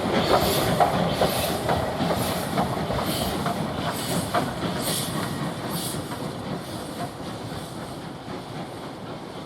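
Train running on the line, its sound fading away as it recedes, with a regular beat of hissy strokes about one and a half times a second.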